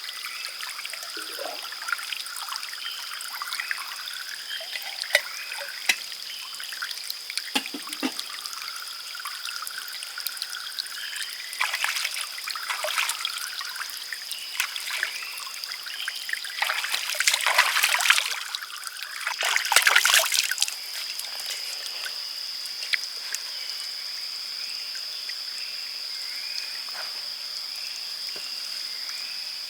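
Water trickling and dripping, with a steady high-pitched tone behind it throughout. There are scattered small clicks, and louder rushes of water about twelve, seventeen and twenty seconds in.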